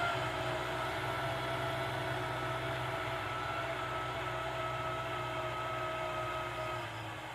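Kubota tractor's diesel engine running steadily with a whine over its low drone, the pitch sagging slightly; near the end the engine slows and the sound drops in pitch and loudness.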